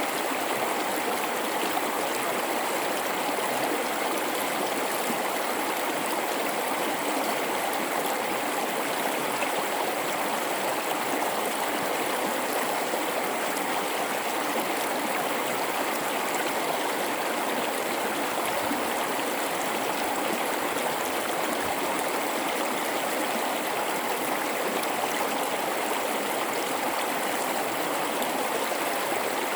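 River flowing through a gorge: a steady, even rush of water that does not change.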